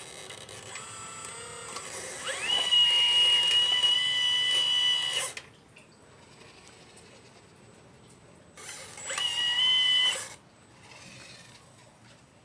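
Small electric motors of a 1/12-scale RC Liebherr 954 excavator whining as it moves. A softer whine from the start rises about two seconds in to a louder, steady high whine that cuts off after about three seconds, and a second, shorter burst comes about nine seconds in.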